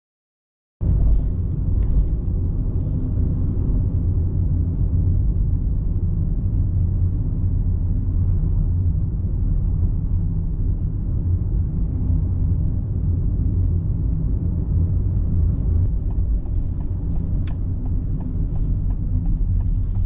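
Car driving: a steady low rumble of engine and road noise, starting about a second in after silence, with a few faint ticks near the end.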